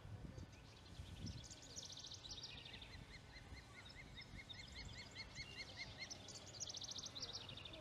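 Faint bird calls: rapid high trills near the start and again near the end, with a steady series of short chirps, about four a second, in between, over a low outdoor rumble.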